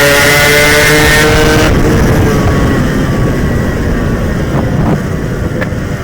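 Yamaha RX-King's single-cylinder two-stroke engine held at high revs under full throttle, then the throttle shut abruptly about a second and a half in, leaving the engine and road rumble as the motorcycle coasts.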